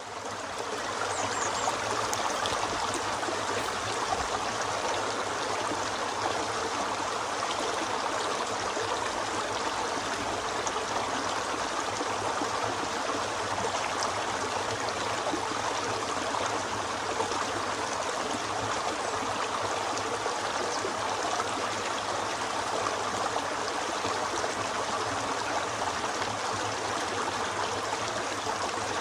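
Mountain river rushing and babbling over rocks in a steady, continuous flow.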